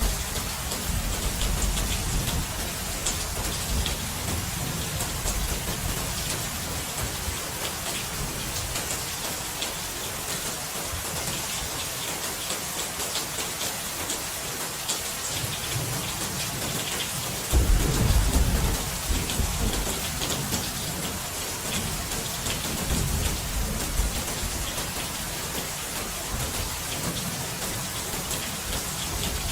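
Steady rain hissing down, with low rolls of thunder coming and going; the loudest roll starts suddenly about eighteen seconds in.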